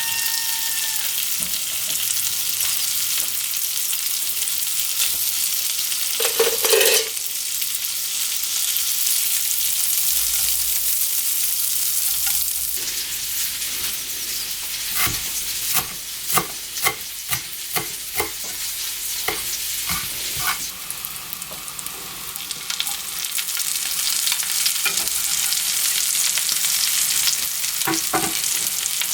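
Food sizzling as it fries in a pan while a utensil stirs it, with a run of sharp knocks against the pan in the middle and a louder clank about six seconds in.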